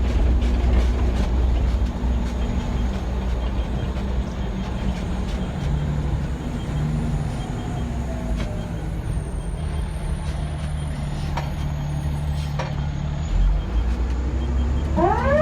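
Fire truck engine running, heard from inside the cab as a steady low drone. About a second before the end, the siren starts up with a rising wail.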